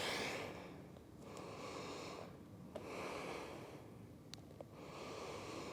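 A woman breathing audibly between effortful yoga holds: three slow, soft breaths of about a second each.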